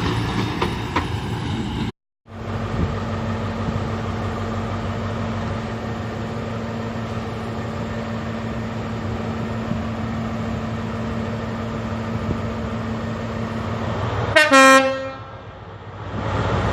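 Diesel train running steadily with a constant engine hum, cut off briefly about two seconds in. Near the end comes a loud, short horn blast.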